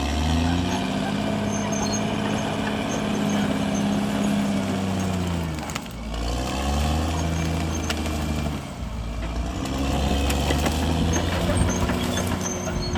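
Diesel engine of a CAT D6R XL crawler bulldozer working under varying load. It revs up at the start, its pitch sags about halfway through and climbs back, then dips briefly again later and recovers, as the dozer takes and sheds load.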